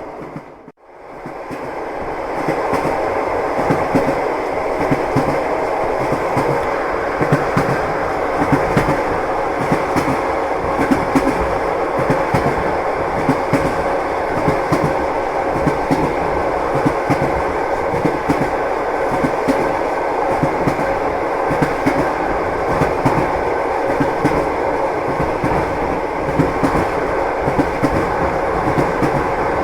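Train wheels clattering over the rails with a steady rumble and irregular sharp clicks of the wheels crossing rail joints. The sound drops out briefly about a second in and fades back up.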